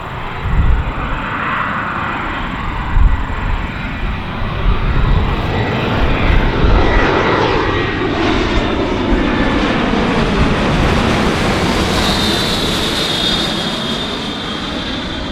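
Bombardier Challenger 300 business jet's twin turbofans passing close on its landing approach. The engine pitch glides downward as it goes by, and a high turbine whine comes in near the end.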